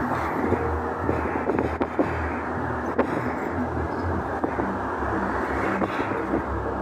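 Steady low rumbling drone in an amateur outdoor recording, with wind on the microphone: the noise of a so-called celestial earthquake, or sky quake.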